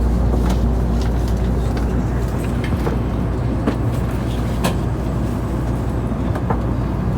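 Cabin noise inside a moving Tokaido Shinkansen car: a steady low rumble, with scattered light clicks and ticks.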